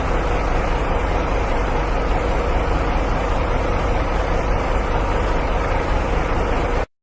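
Steady vehicle engine and road noise, cutting off abruptly near the end.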